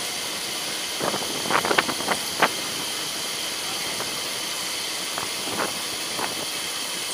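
Mumbai suburban local train running, heard from aboard: a steady rushing hiss of rolling and air noise, with a quick series of sharp clicks and knocks between about one and two and a half seconds in and a few more later, the wheels passing over rail joints.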